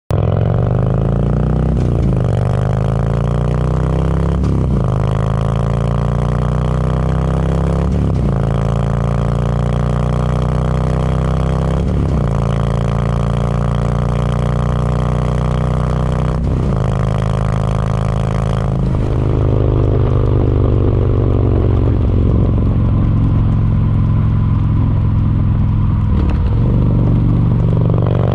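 Harley-Davidson Milwaukee-Eight V-twin touring bike running through baffled Screamin' Eagle Street Cannon mufflers, which are moderate in sound. It accelerates with the engine pitch climbing and dropping at each of about five gear shifts, then runs at a steadier speed for the last several seconds.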